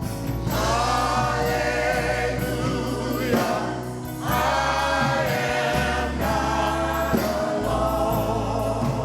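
Choir and congregation singing a gospel worship song in phrases of several seconds, over instrumental accompaniment with steady low bass notes.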